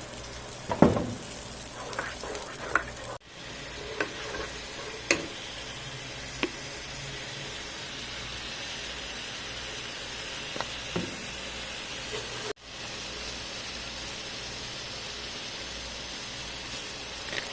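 Onion and tomato masala paste sizzling steadily as it fries in a pan, with occasional sharp knocks as it is stirred, most of them in the first half. The sound drops out for a moment twice.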